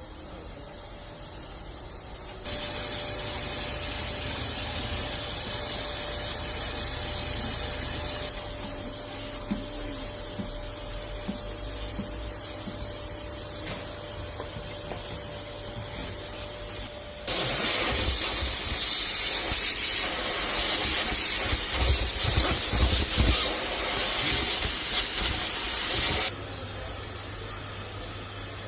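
Vacuum cleaner motor running with a steady rush of air and a high whine, stepping louder and quieter a few times as its load or setting changes.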